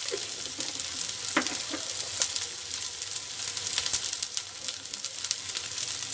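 Onions, green chillies and freshly added ground spices frying in hot mustard oil in a karahi: a steady sizzle with many small crackling pops.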